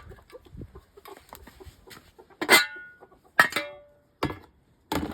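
Two sharp metallic clanks about a second apart, each ringing briefly, with quieter tapping and scraping around them.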